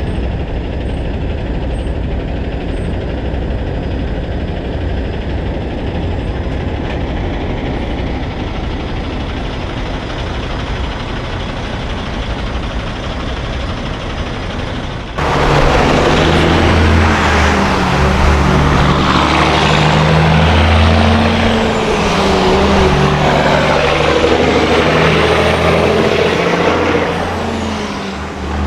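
Heavy diesel trucks running on the road, with steady road noise. About halfway through, the sound changes abruptly to a louder, closer truck with a strong, deep engine note.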